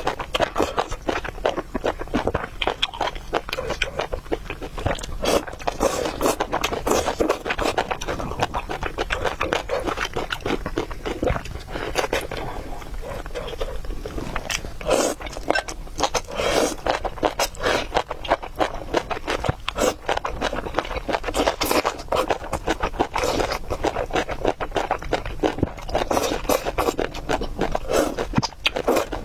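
Close-up eating of spicy noodle soup with meatballs: steady chewing with frequent clicks and scrapes of utensils against a bowl.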